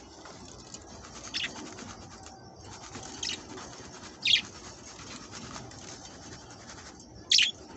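Budgerigars chirping: four short, high calls over a faint steady background, the loudest near the end.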